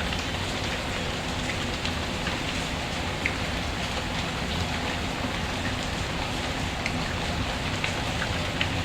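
Steady rain falling, an even hiss with scattered faint ticks of drops or small crackles through it.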